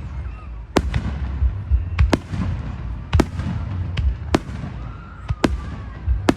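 Fireworks going off: about nine sharp bangs at irregular intervals, some in quick pairs, over a steady low rumble.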